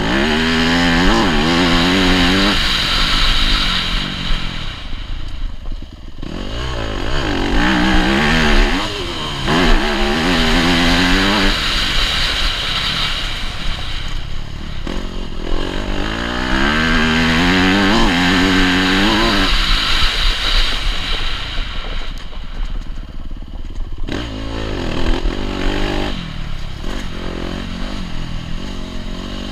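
Yamaha YZ250F motocross bike's single-cylinder four-stroke engine revving hard and backing off, its pitch climbing through the gears in repeated surges with drops in between as it rides the track.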